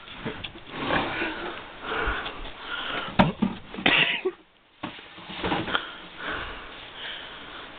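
A person's heavy, wheezing breaths coming in swells about a second apart, with a sharp knock about three seconds in.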